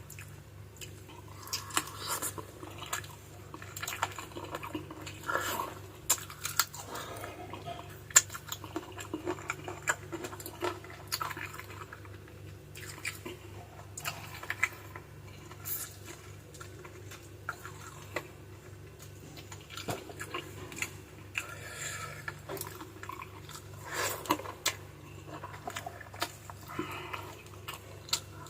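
Close-miked chewing and sucking on chicken feet in adobo sauce, with many short clicks and smacks and now and then a clink of utensils on a dish, over a steady low hum.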